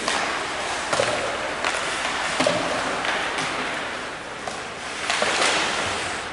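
Game noise in a large echoing hall: a steady hiss broken by half a dozen sharp knocks and thuds, with the densest cluster about five seconds in.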